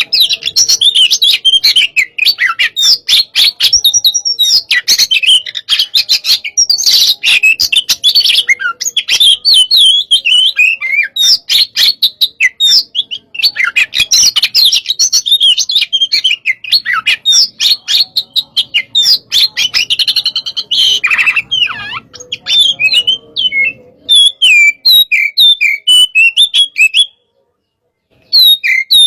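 Oriental magpie-robin (kacer) in loud, fast, varied song: rapid chirps and whistled phrases one after another, in the fired-up 'hot type' style. The song breaks off briefly near the end, then resumes.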